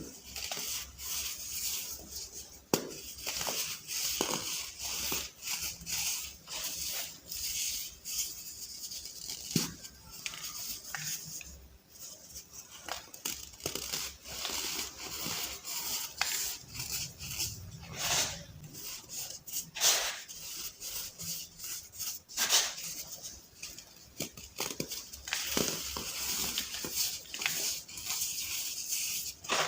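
Soft balls of baking soda being crushed and crumbled: an irregular run of crisp, crunchy crackles and sharp snaps over a gritty, powdery hiss.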